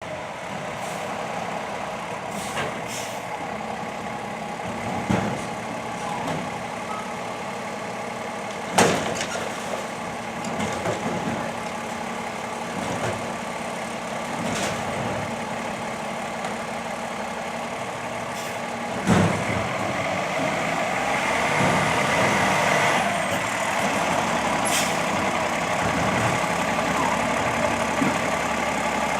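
Garbage truck engine running steadily, with sharp clanks and knocks here and there, the two loudest about nine and nineteen seconds in.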